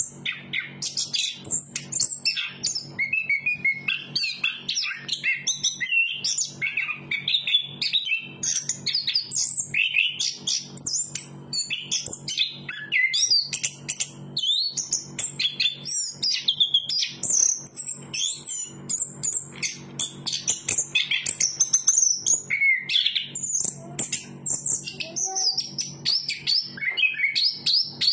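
Chestnut-capped thrush (anis kembang) singing a long, unbroken song of quick, varied chirps, whistles and trills, with a faint steady hum underneath.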